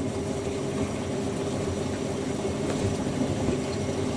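Fisher & Paykel WM1490F1 and Hoover A8582 washing machines running together, one drum distributing the load and beginning its spin off the first rinse. The sound is a steady motor hum with one even, held tone.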